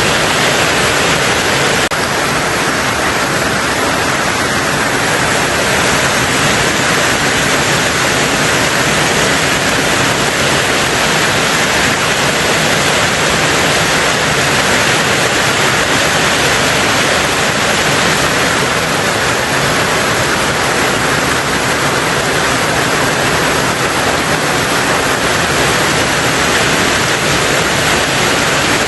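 Heavy, steady rain on a tin roof, an even hiss with no separate drops standing out.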